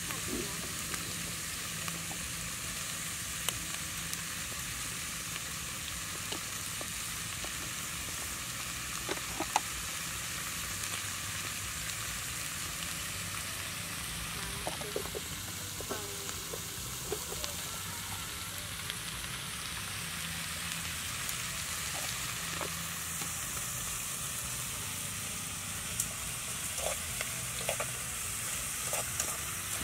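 Chopped eel pieces sizzling in a metal pot over a wood fire: a steady hiss with scattered small pops.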